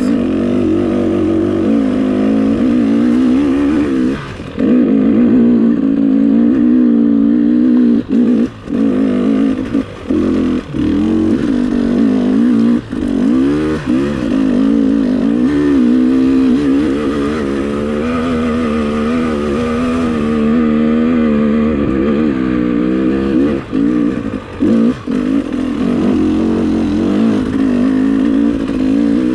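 Dirt bike engine running as it is ridden, its pitch wavering up and down with the throttle. The level drops sharply for a moment several times, mostly in the first half and again near the end, as the throttle is rolled off.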